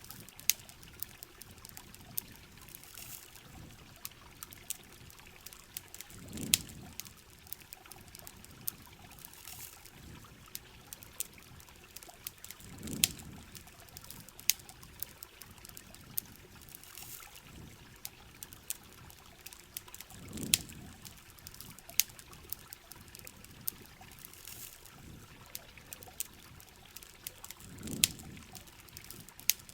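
Heavy rain falling steadily, mixed with the sharp irregular crackles and pops of a campfire. A soft low whoosh swells and fades about every seven seconds.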